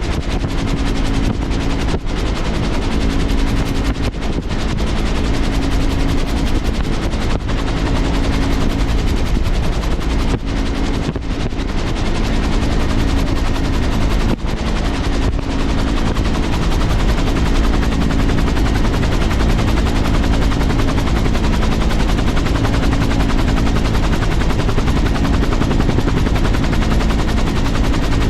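A powerful engine running steadily and loudly close by, with a very fast, even rattling pulse over a steady low drone.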